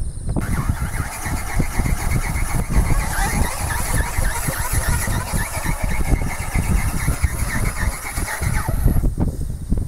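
RC ornithopter's electric motor and flapping-wing gearbox running under power, starting about half a second in and cutting off shortly before the end, over heavy wind buffeting on the microphone.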